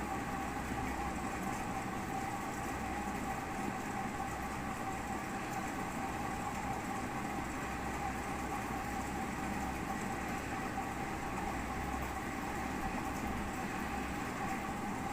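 Steady mechanical hum with a constant mid-pitched tone over an even background noise, unchanging throughout.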